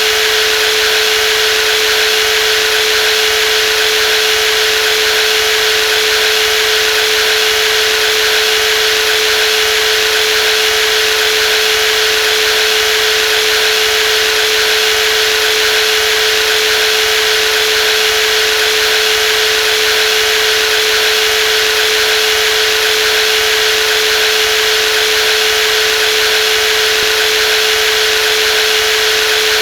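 Brushless jigsaw running steadily, a constant high hum with the buzz of the reciprocating blade, unchanging throughout.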